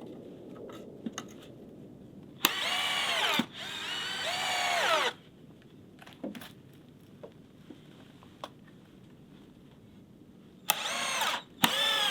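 Power drill in four short runs: a pair about two and a half seconds in and another pair near the end, each rising in pitch as it spins up and falling as it lets off. Small knocks and clicks between the runs.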